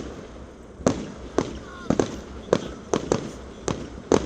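Fireworks going off at a bonfire-night display: a run of about seven sharp bangs, roughly two a second, each trailing off briefly.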